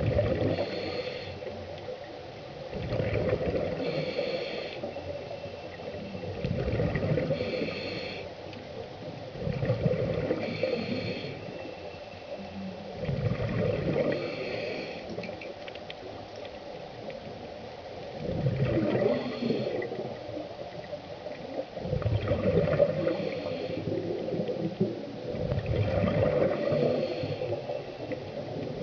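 Scuba regulator breathing heard underwater: a short hiss of inhalation, then a gurgling rush of exhaled bubbles, repeating about every three to four seconds.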